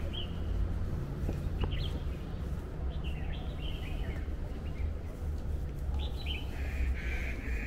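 Birds chirping in short, scattered calls, with a denser run of chirps near the end, over a steady low background rumble.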